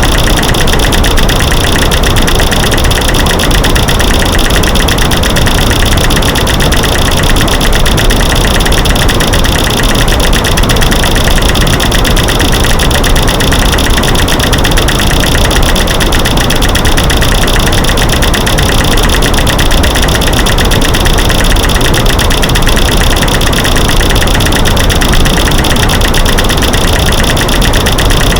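A loud, steady, dense clatter of rapid clicks and knocks from a mix of clicking light switches, snapping sticks and rocks banging together, laid over a constant white-noise hiss. It is an edited masking track meant to drown out creaking floors.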